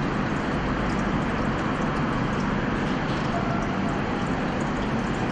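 Steady outdoor street noise in the rain: an even hiss with a low rumble underneath, holding level throughout.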